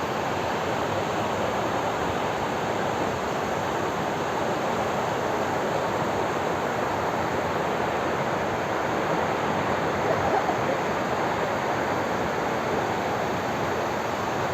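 Steady rushing roar of a large waterfall, Hundru Falls, its water pouring down onto the rocks below.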